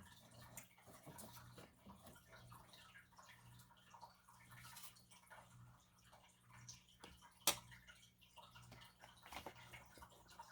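Near silence: faint steady low hum of room tone with small scattered clicks, and one sharp tap about seven and a half seconds in.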